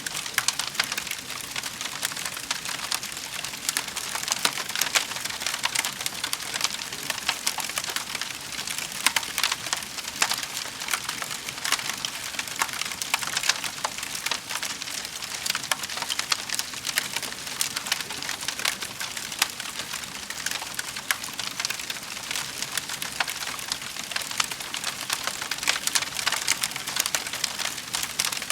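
Wood fire crackling and popping steadily in a fireplace: a dense run of small irregular snaps over a soft hiss of burning logs.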